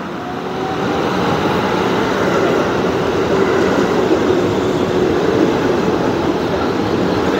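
KRL electric commuter train arriving at the platform. Its wheels and running gear make a steady rumble, which grows louder over the first second.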